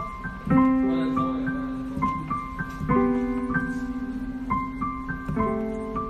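Slow, gentle piano music: a soft high melody over deep chords struck about every two and a half seconds, each note ringing out and fading.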